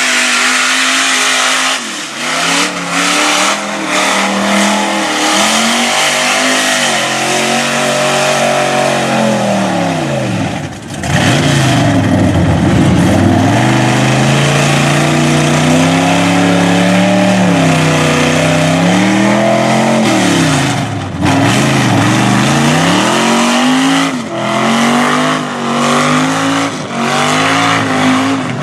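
Loud mud truck engine revving hard, its pitch climbing and falling again and again, with two deep drops and climbs, about eleven and twenty-one seconds in.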